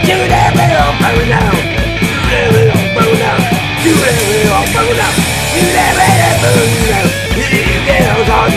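Loud punk rock instrumental passage: a full band with melodic lead lines over driving drums, and a cymbal wash through the middle.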